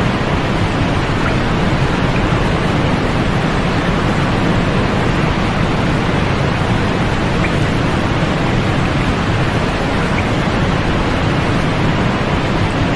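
Steady sleep-aid white noise: a constant, even hiss with a deep, full low end and little treble, unchanging throughout.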